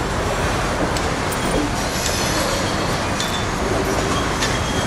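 Freight train of CSXT tank cars rolling slowly past on yard track: a steady noise of wheels on rail, with a few faint, brief wheel squeals.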